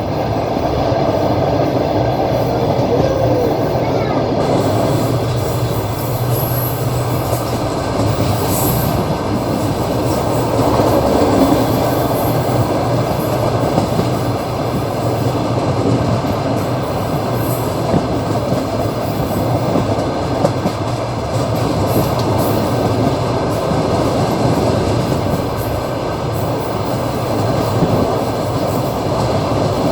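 Train wheels rolling over the rails, heard from inside a carriage by an open window: a steady running rumble with the clatter of the wheels on the track.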